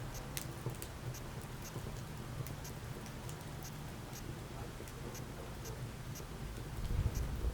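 Wood fire crackling in a fireplace: frequent, irregular sharp pops and snaps over a steady low rumble of the flames. The rumble swells briefly near the end.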